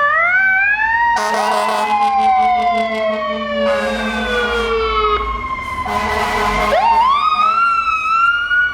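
Federal Signal PA300 electronic siren on a fire truck wailing, its pitch rising and falling slowly, with a second siren overlapping at a different pitch.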